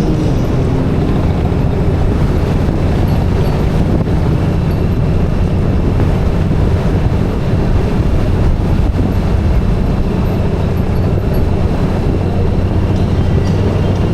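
A motorcycle riding at a steady speed: a steady low engine drone under a constant rush of wind and road noise.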